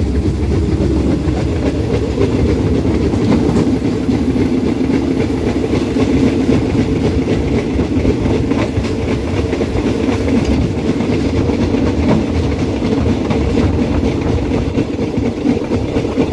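Passenger train carriage running at speed, heard from its open doorway: a steady loud rumble of wheels on the rails with a few faint clicks now and then.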